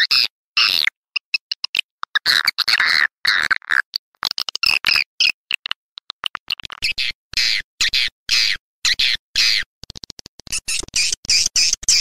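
Swiftlet call recording used as a lure sound for swiftlet houses: rapid, high chirps and twitters in quick runs that start and stop abruptly, with brief silent gaps between them.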